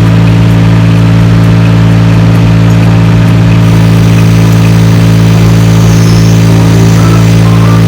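Engine running loud and steady at a constant speed, with no change in pitch.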